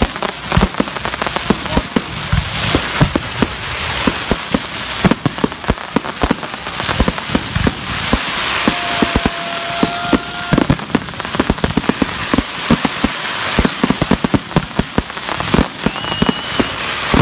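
Fireworks display: a dense, continuous barrage of bangs and crackling from aerial shells and crackling stars bursting overhead. A steady tone sounds for about two seconds near the middle.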